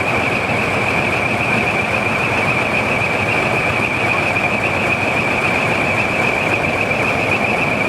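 A steady high-pitched tone held without a break over the running of truck engines.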